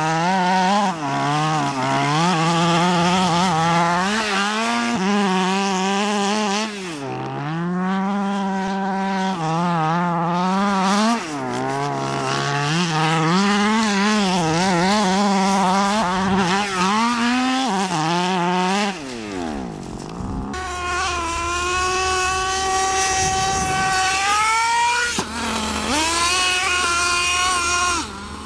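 Small two-stroke engine of a radio-controlled monster truck, throttled up and down over and over in quick revs. About two-thirds through, the pitch sweeps sharply down, and after that an engine holds steadier pitches that climb slowly, with a few short drops.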